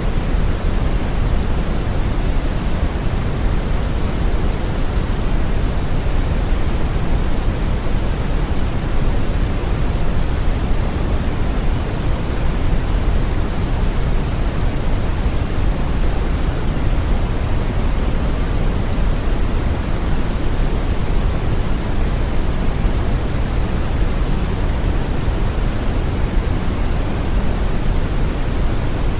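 Steady synthetic brown noise: a deep, even rushing hiss with most of its weight in the low end and little treble, unchanging throughout.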